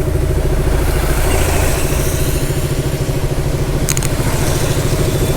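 Motorcycle engine running steadily, picked up by a helmet-mounted camera, with a brief click about four seconds in.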